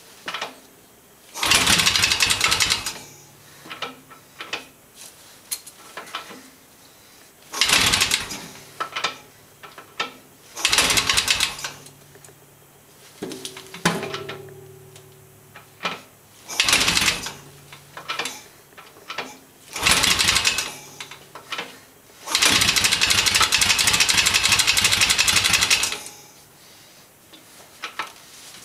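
1978 Yamaha XS650 parallel-twin engine catching in about six loud bursts of running that each falter after a second or so, the last and longest lasting about four seconds near the end. This is a flooded engine that runs mostly on one cylinder and will not stay running, as the owner describes it.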